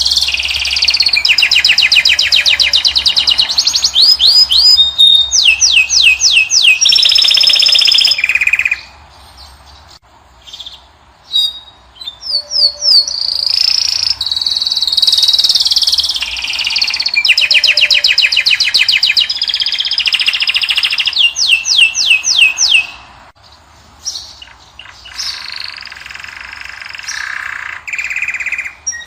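European goldfinch and canary song: long phrases of fast, evenly repeated trills and twittering notes, broken by two short pauses, one about nine seconds in and one about twenty-three seconds in.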